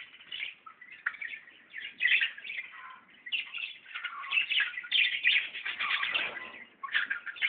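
Small birds chirping and chattering in dense, overlapping bursts with short lulls.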